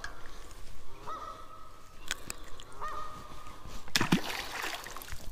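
Two drawn-out bird calls, each with a quick upward lift and then held on one pitch, about two seconds apart. About four seconds in comes a loud knock with a short rush of noise after it.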